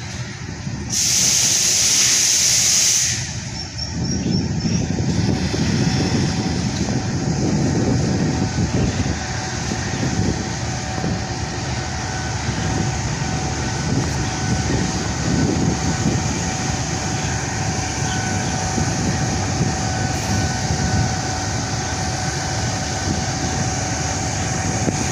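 Diesel locomotive hauling passenger coaches as it approaches: a loud hiss about a second in that lasts some two seconds, then a heavy rumble of engine and wheels that builds and holds, with a thin steady whine through it.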